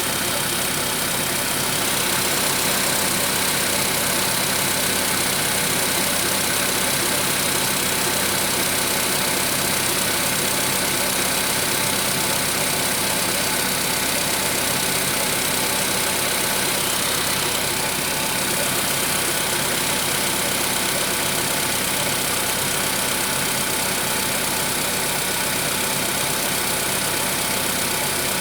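Volkswagen Polo Sedan petrol engine idling steadily with the knock that persists 1000 km after the piston replacement.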